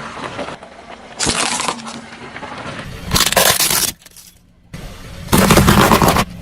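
Car tyres rolling over and crushing brittle objects: three loud bursts of crunching and cracking, each under a second long and cut off abruptly, with a lower rumble between them.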